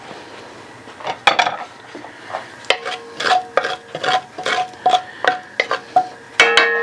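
A metal utensil knocking and scraping against a metal cooking pot: a quick series of clinks, about two to three a second, many leaving a short ringing tone, ending in a louder clang that rings on.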